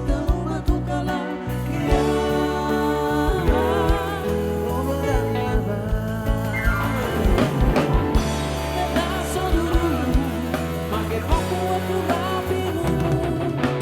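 Live band playing a song with a singer's voice over it, steady drum beat and bass underneath.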